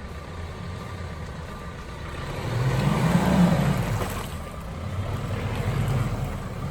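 Off-road vehicle's engine revving under load as it pulls through, swelling to its loudest about three seconds in, easing off, then picking up again near the end.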